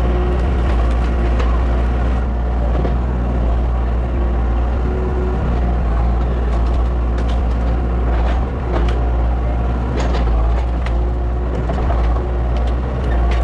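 A large engine running steadily at a low pitch, with scattered sharp cracks and snaps over it.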